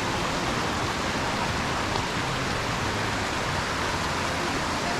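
Steady rushing of falling water, an even unbroken hiss from a waterfall and its stream.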